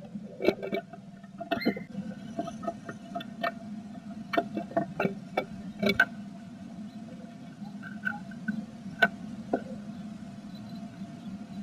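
Blue tit inside a wooden nest box, scratching and tapping irregularly as it moves about working nest material. The taps come in quick clusters over a steady low hum.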